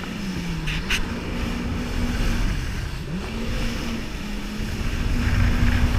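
Jet ski engine running under way. Its speed dips and picks up again twice, then holds steady and gets louder near the end. A short crackle comes about a second in.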